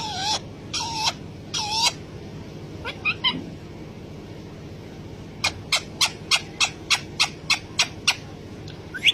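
Pet parrot calling: three short wavering calls in quick succession, another a little later, then a rapid run of about a dozen short chirps, roughly four a second.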